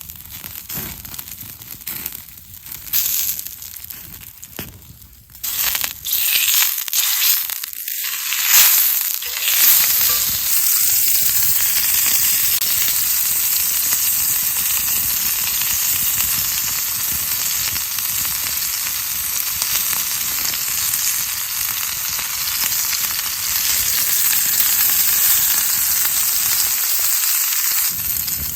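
Meat frying over a campfire: a few crackles and clicks, then from about five seconds in a loud, steady sizzle.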